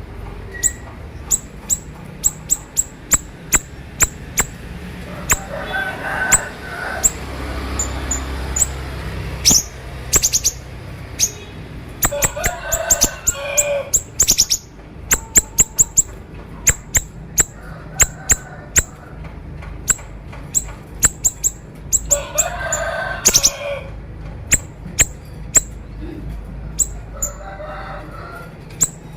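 Siri-siri songbird singing a sharp 'konslet' song: a fast, uneven run of short, high, clicky notes. Bursts of lower chattering calls come in a few times, about six, thirteen and twenty-two seconds in.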